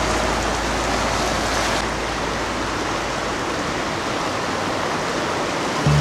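Steady rush of whitewater pouring through a river rapid, with a low rumble underneath that fades out a little past halfway.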